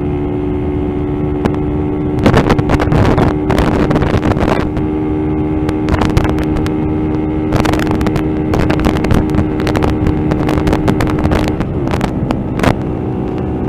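Motorcycle engine running steadily at a constant speed, heard from the rider, with wind buffeting the microphone from about two seconds in.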